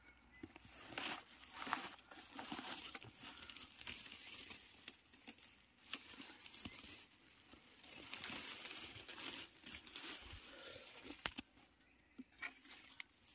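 Uneven rustling and crackling of dry leaf litter and twigs on the forest floor, with scattered sharp snaps, as someone moves through it and brushes it aside to reach mushrooms. A short high bird chirp is heard about seven seconds in.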